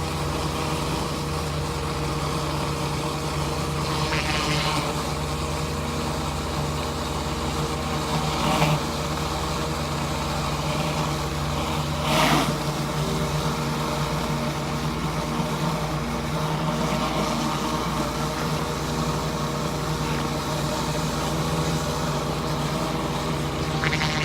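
Pressure washer running steadily at a constant pitch while cleaning concrete with a surface cleaner attachment, with a few brief swells of hiss, about four seconds apart near the start.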